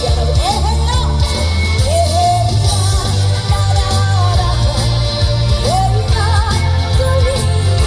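A woman singing a trot-style song with vibrato over a loud backing track with a heavy, steady bass beat.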